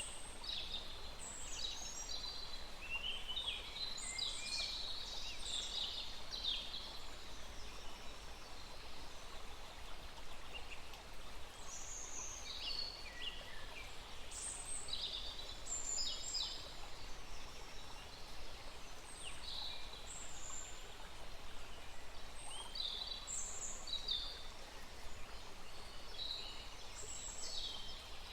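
Several small songbirds chirping and trilling in short, overlapping phrases, busiest in the first several seconds and then more scattered, over the steady hiss of a small flowing stream.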